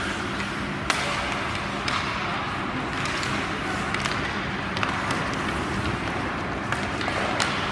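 Ice hockey play: sharp knocks of sticks and puck, about one a second, over steady rink noise and a low hum.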